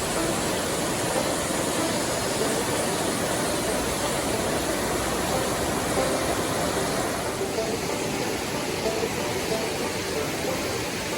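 Steady rushing of a shallow mountain river flowing over stones, an even wash of water noise.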